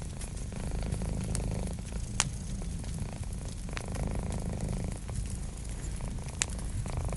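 A domestic cat purring steadily in a low rumble, over a wood fire crackling with a few sharp pops, two of them standing out about two seconds in and near the end.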